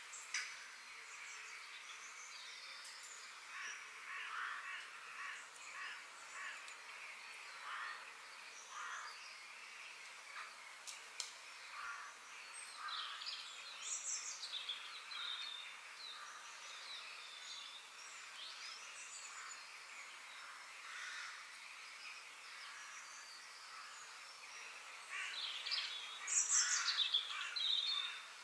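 Several forest birds chirping and singing over a faint steady background hiss, with short rising and falling calls throughout and a louder run of falling calls near the end.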